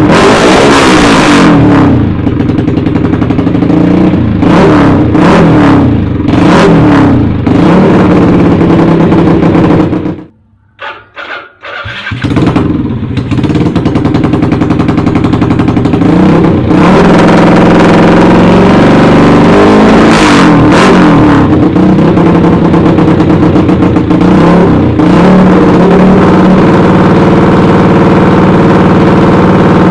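Bored-up Yamaha Jupiter single-cylinder four-stroke motorcycle engine, loud through a CLD Monster aftermarket exhaust, revving up and down repeatedly. About ten seconds in the sound cuts out almost completely, gives a couple of short spurts, then comes back to full revving.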